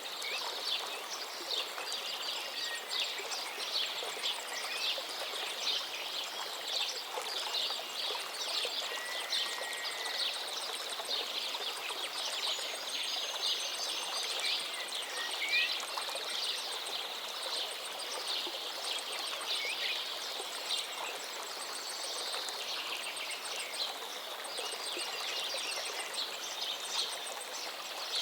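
Many songbirds singing in a dense, continuous chorus of quick chirps and short whistles over the steady rush of a gently flowing forest river.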